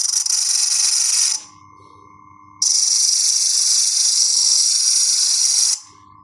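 Two long bursts of loud hiss, the first lasting about a second and a half and the second about three seconds, each starting and stopping abruptly, over a faint steady hum.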